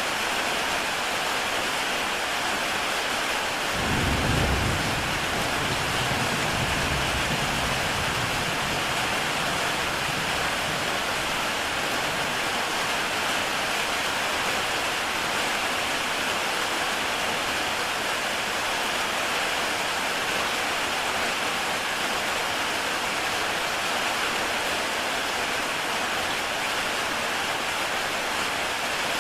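Heavy rain falling steadily on a tile roof, an even hiss of drops. About four seconds in, a low rumble of thunder starts suddenly and fades away over several seconds.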